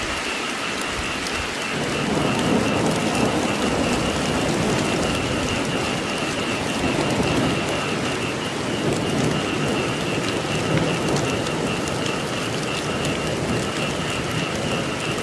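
Steady rainfall pattering on surfaces, joined about two seconds in by a low rolling rumble of thunder that carries on.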